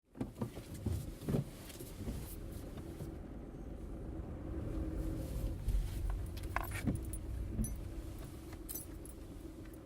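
Car keys jangling and a few sharp clicks over the steady low rumble of a car running, heard from inside the cabin.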